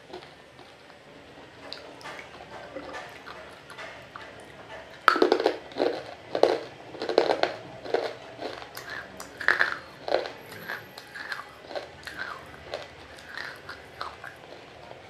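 Close-miked chewing of water-soaked roasted nakumatt pieces: wet crunches. Faint small clicks at first, then a sudden run of loud crunches about five seconds in, and irregular crunches after that.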